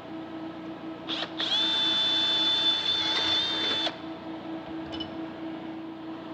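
Power drill briefly triggered, then run at a steady high whine for about two and a half seconds before stopping. A small click follows.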